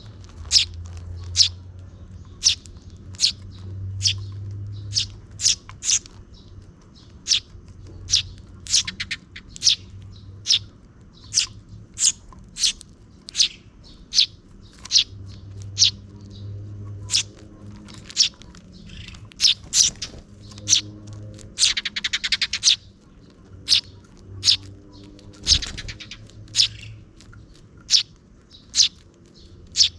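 Sparrows chirping: a string of short, sharp chirps, one or two a second, with a rapid buzzy run of notes about twenty-two seconds in, from a parent bird and its two chicks at feeding.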